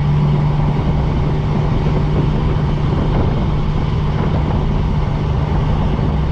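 Engine running at a steady speed with road and wind noise while driving, heard from inside the vehicle as a constant low drone.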